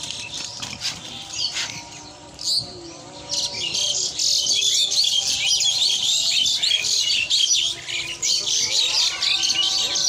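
Many small birds chirping together in a dense, chattering chorus that grows fuller from about three seconds in. Soft background music with long held tones runs underneath.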